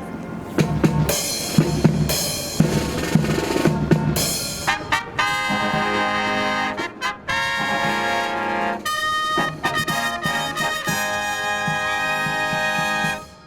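Marching brass band playing a fanfare. Drum strokes open it, then trumpets and trombones sound held chords, and the band cuts off together on a final chord near the end.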